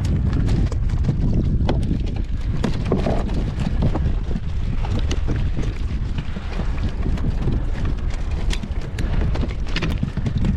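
Wind buffeting the microphone on a kayak at sea, a steady low rumble, with irregular small knocks and clicks over it.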